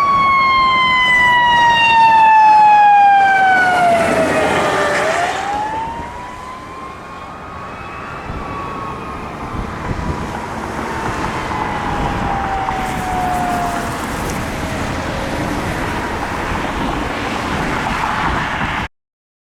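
Fire truck siren wailing: a long falling tone that swoops back up about five seconds in and then falls slowly away, over the noise of the passing truck's engine and tyres. The sound cuts off suddenly near the end.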